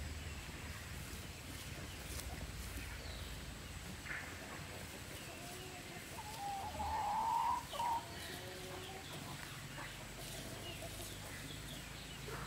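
A chicken calling: one loud, drawn-out cluck of about a second and a half a little over halfway through, with a few fainter short calls around it.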